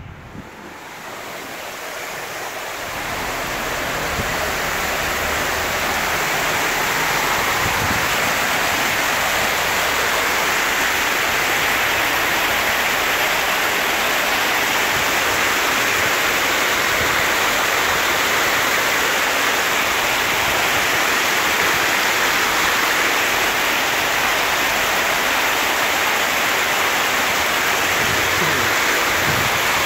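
Heavy rain pouring down, with water gushing from a drainpipe spout and runoff rushing over the street in a steady loud hiss. It grows louder over the first four seconds, then holds steady.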